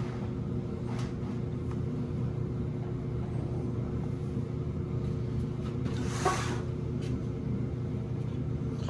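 LG gas dryer running: a steady low rumble and hum from the tumbling drum and blower motor, with a brief hissing scrape about six seconds in.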